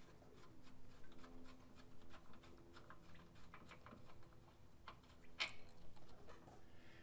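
Scattered light clicks and clinks of hand tools and metal engine parts being handled, over a faint steady hum, with a sharper clank about five and a half seconds in.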